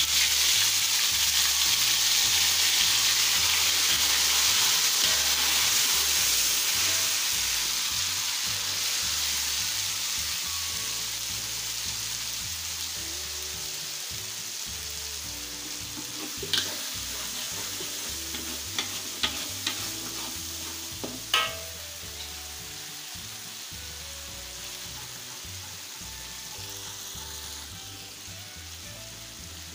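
Wet ground spice paste sautéing in hot oil in a metal wok: a loud sizzle that slowly dies down while it is stirred, with a few sharp clicks of the metal spatula against the pan past the middle.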